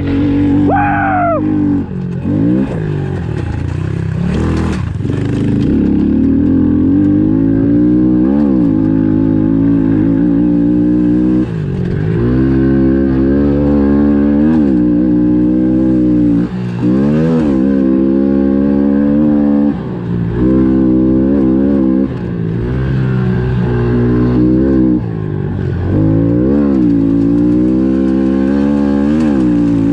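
Honda CRF110F pit bike's single-cylinder four-stroke engine at race pace. The revs climb and fall over and over, and the throttle is chopped briefly every few seconds, at about 2, 11, 16, 20, 22 and 25 seconds in.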